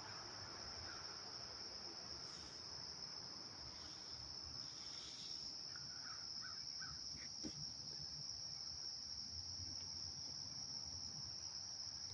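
Crickets trilling in a steady, high, continuous drone, with a few faint short animal calls in the middle.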